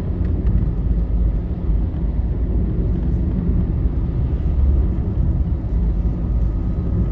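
Steady low rumble of a vehicle travelling along a highway, the road and engine noise heard from inside, with no distinct events.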